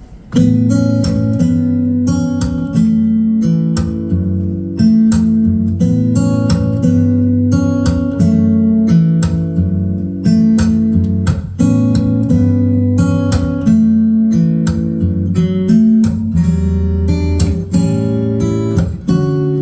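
Acoustic guitar playing the song's instrumental intro: chords struck in a steady rhythm, each ringing on under the next.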